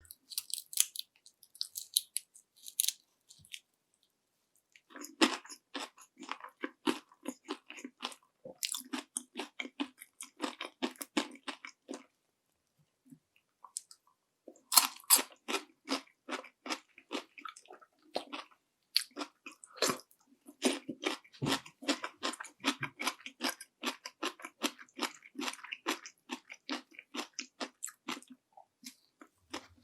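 Crunchy bites and chewing of panko-breaded fried shrimp close to the microphone, the crisp coating crackling with each chew. Light crackles at first, then two long runs of rapid chewing, the second starting with a sharp fresh bite about halfway through.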